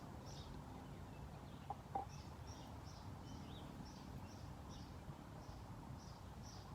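A bird outdoors repeating a short high chirp about three times a second, starting about two seconds in, over a steady low background rumble, with two faint knocks just before the chirping begins.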